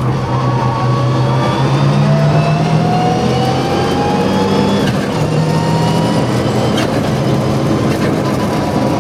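Mitsubishi Lancer Evo VI Group A rally car's turbocharged four-cylinder engine pulling hard on track. Its pitch climbs steadily through the gears and breaks sharply at gear changes, about five and seven seconds in.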